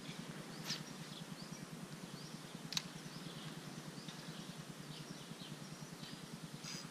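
Small songbirds chirping on and off over a faint outdoor background. Two short clicks cut through, the sharper one a little under three seconds in.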